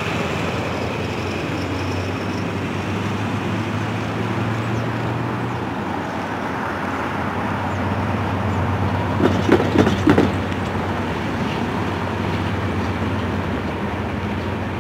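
Freight train of tank cars rolling across a steel girder bridge: a steady rumble, with a short cluster of loud knocks about nine to ten seconds in.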